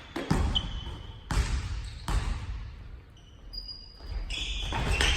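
Basketball bouncing on a gym floor during play: three loud thumps about a second apart, each with a short echo, and busier court noise near the end.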